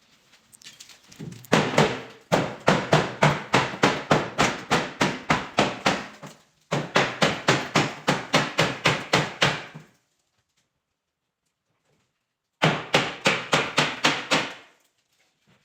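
Hammer blows in a steady rapid series, about four a second, knocking loose wooden ceiling boards that were nailed and glued in place. The blows break off about ten seconds in and start again for a couple of seconds after a silent gap.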